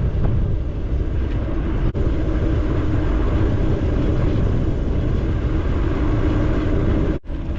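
Heavy wind rumble buffeting the microphone during a fast downhill ride on a bicycle, steady and loud, broken by two brief cuts.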